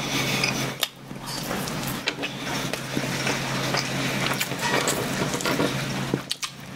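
Close-miked chewing of a soft bread bun, with many small wet mouth clicks and smacks, over a steady low hum.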